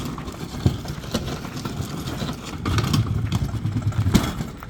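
Low rumbling with scattered knocks and clacks as a refrigerator is being moved by hand, with louder rumbling in the second half.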